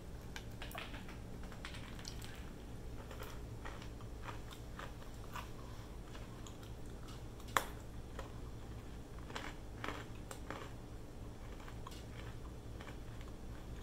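Someone chewing a piece of homemade peanut brittle: faint, irregular crunches, with one sharper crack about seven and a half seconds in.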